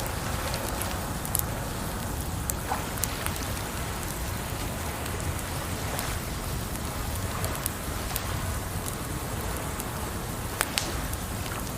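Campfire crackling, with scattered sharp pops over a steady rush of water; the loudest pops come near the end.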